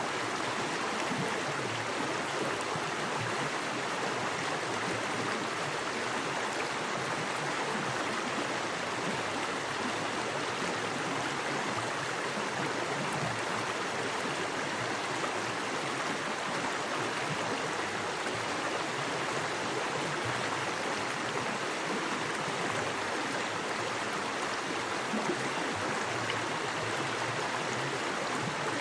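Small forest creek, fast water running over rocks in a steady rushing noise.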